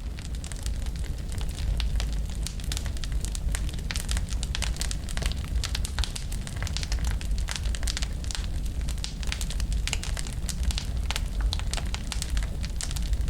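Wood fire burning and crackling: many sharp pops and snaps from the burning wood over a steady low rumble of the flames.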